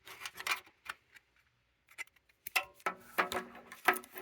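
Handling noises from measuring a Hoover Model O vacuum cleaner's brush roll housing: a run of sharp clicks, taps and light rattles, some ringing briefly. They are busiest in the second half.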